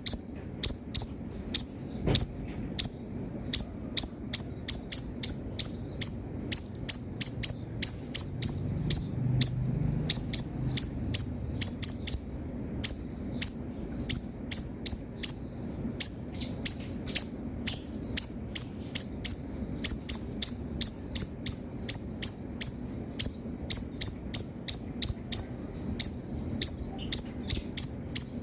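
Sunbird (kolibri ninja) in full, active song: a steady, rapid stream of short, sharp, high chirps, several a second.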